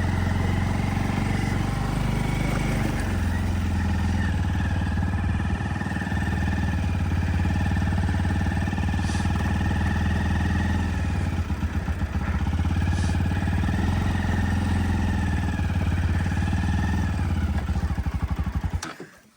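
Motorcycle engine running steadily at low revs, its beat pulsing briefly about two-thirds of the way through; it cuts off abruptly near the end.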